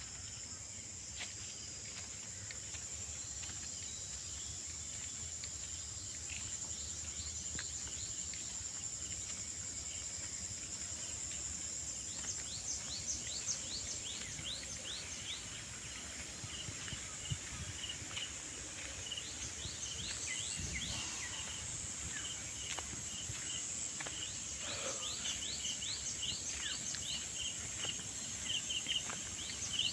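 Rural outdoor ambience: a steady high-pitched drone of insects, joined from about twelve seconds in by birds chirping in quick repeated calls that grow busier near the end.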